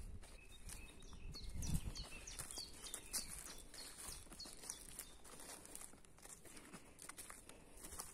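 Songbirds singing: a quick run of high, downward-sliding notes in the first half, over soft footsteps in the field.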